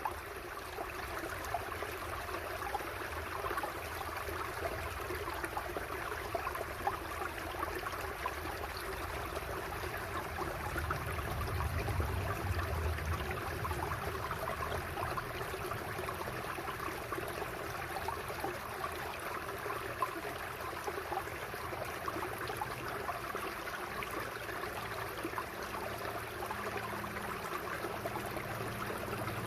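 Shallow forest river babbling steadily as it runs over rocks.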